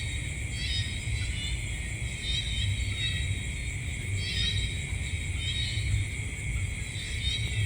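Night-time nature ambience: a steady high-pitched chorus of insects, with a short chirping call repeating every second or two, over a low rumble.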